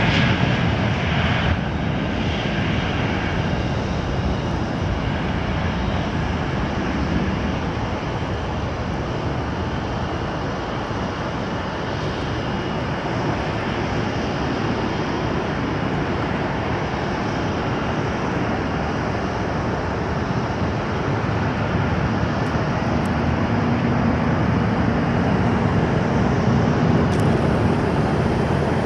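Jet engine noise from a Boeing 737-800's CFM56-7B turbofans at takeoff power: a steady, broad roar, with a high whine that fades out in the first few seconds.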